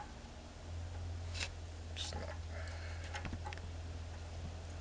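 A few faint separate clicks and knocks of a 5/8 socket working the clutch adjusting bolt on a semi truck, while it is pushed in and turned, over a steady low hum.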